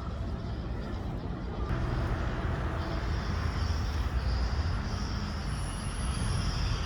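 Steady outdoor background noise: a low rumble with an even hiss, joined about three seconds in by a thin, steady high-pitched whine.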